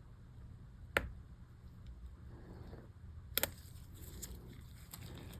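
A few sharp small clicks as a heat-burnt MacBook key is pried at to get it out: one about a second in and a quick double click a little past the middle, with fainter ticks between.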